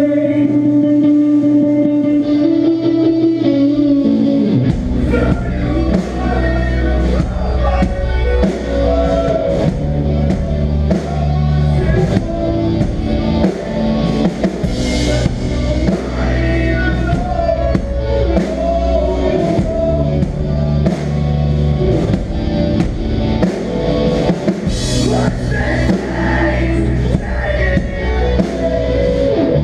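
Live melodic hardcore band playing. Sustained electric guitar rings out with little low end, then drums and bass come in heavily about four and a half seconds in, and the full band plays on.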